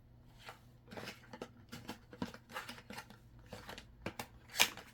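Nickels clicking against one another as they are handled and stacked, a run of irregular sharp clicks with the loudest near the end.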